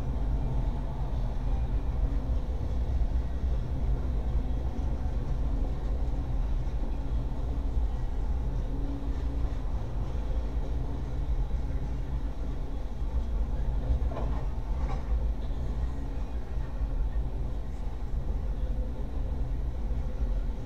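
Norfolk Southern coal train's hopper cars rolling past: a steady low rumble of steel wheels on rail, with a few brief clanks about two-thirds of the way through.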